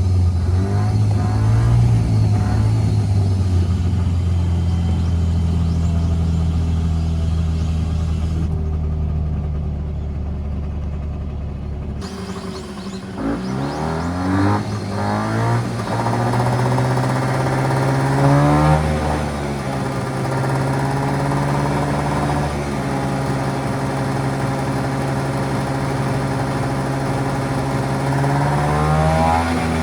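Mitsubishi Minica 360 GSS's small twin-carburettor engine running, its revs climbing sharply a few times: around halfway, about two-thirds in and near the end.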